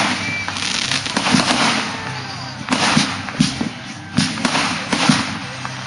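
Fireworks going off in quick succession: about seven sharp bangs, roughly one a second, over a continuous rushing noise.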